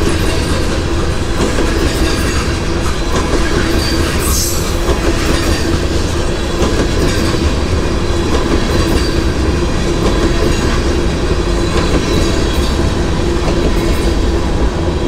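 Freight train passing close by: a loud, steady rumble of its wheels on the rails, with a brief high screech about four seconds in.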